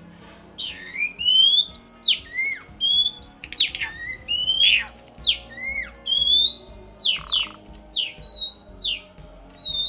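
Pet songbird whistling loud, clear sliding notes in a rapid series, each rising and then dropping sharply, starting about half a second in.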